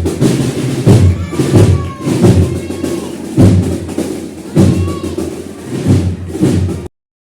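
Procession band's drums playing a slow march: heavy bass-drum strokes roughly once a second over snare rolls, with faint brass. The sound cuts off abruptly near the end.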